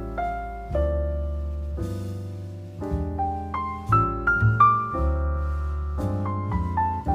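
Gentle solo piano music, slow melodic notes struck one after another, each ringing out and fading.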